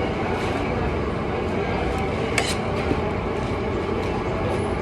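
Steady background noise of street traffic, with one sharp clink about halfway through.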